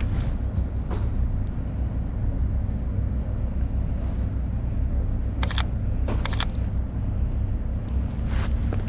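Steady low rumble of city street noise, with a few sharp clicks past the middle and again near the end.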